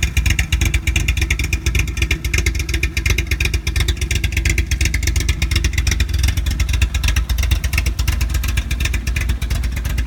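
VW Golf Mk2 four-cylinder engine idling steadily, with an even, rapid exhaust pulse.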